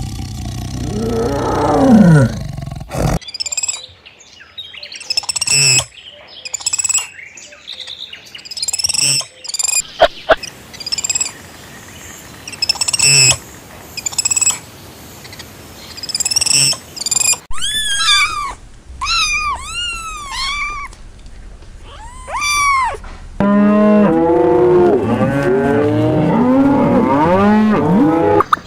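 A run of different animal calls. It opens with a low call that falls in pitch, then come scattered short high chirps, then a string of arched calls, and from about two-thirds in many lower calls overlap in a dense chorus.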